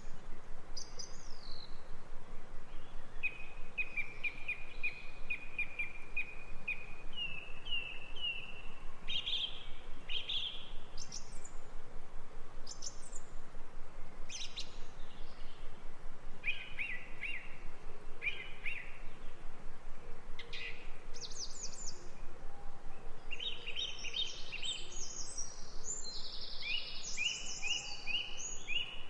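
Songbirds singing: a fast trill of repeated notes for several seconds, then scattered short phrases, with several birds overlapping near the end. Steady background hiss throughout.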